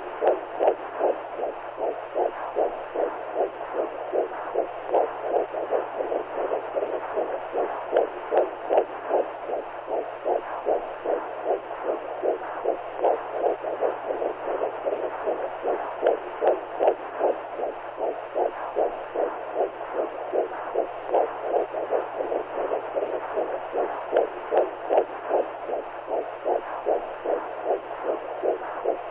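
Womb sound for soothing a newborn: a muffled, whooshing heartbeat pulsing in a fast, even rhythm over a low steady hum.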